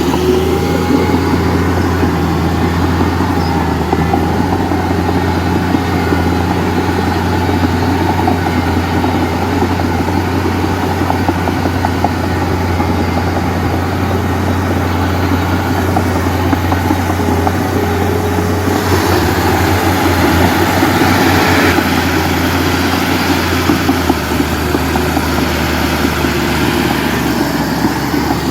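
Heavy diesel engine running steadily, with a few seconds of louder, rougher working noise a little past the middle.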